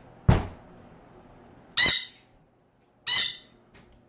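One knock on a door, then a parrot squawks twice, once about a second and a half in and again about three seconds in.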